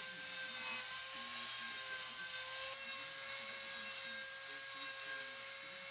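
Abrasive sanding on the edges of a welded steel guitar body, the stepped grinder corners being smoothed. It sounds over a steady whine with several fixed high pitches.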